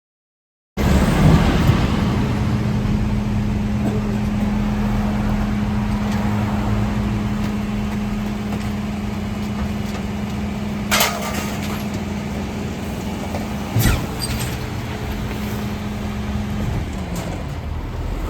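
Mercedes Econic refuse truck running steadily, with a constant hum held throughout that cuts out shortly before the end. The sound starts abruptly about a second in, and two sharp bangs come about eleven and fourteen seconds in.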